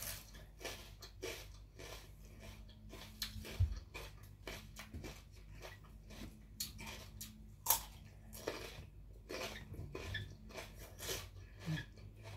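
Close-miked chewing and biting of food: irregular wet clicks and crunches several times a second, with a couple of louder bites about four and eight seconds in.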